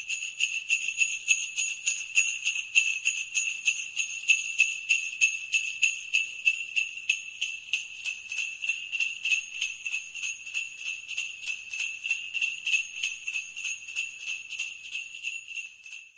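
Jingle bells shaken in a steady, even rhythm of about four to five shakes a second, a bright tinkling ring.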